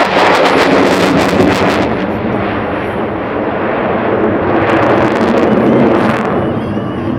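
F-22 Raptor's twin afterburning jet engines in a loud pass, with a harsh crackle. The noise swells near the start, eases, swells again about five seconds in, then fades away.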